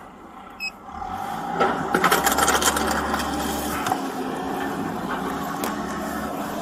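A vehicle engine running, with loud clattering and scraping starting about a second and a half in, and a short high beep just before.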